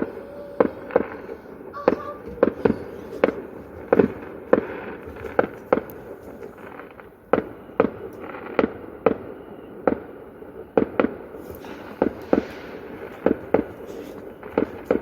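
Fireworks going off in a near-continuous run of sharp, irregular bangs, a few a second, with short lulls between volleys.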